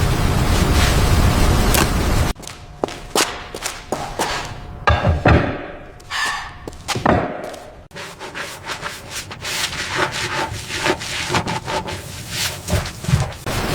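Steady wind noise, then a run of scraping, rubbing and knocking from hand work on wood and rough surfaces, strokes coming irregularly a few times a second.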